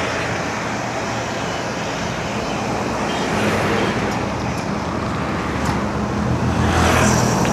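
Road traffic heard from a bicycle: a steady noise of passing motor vehicles, with a vehicle engine growing louder near the end as it comes close.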